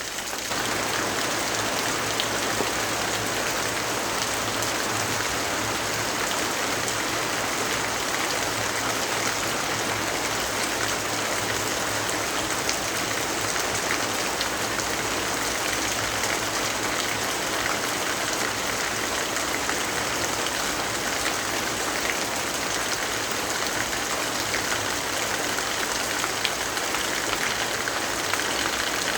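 Steady, heavy rainfall: a dense, even hiss of rain on surfaces that steps up slightly just after the start and then holds level.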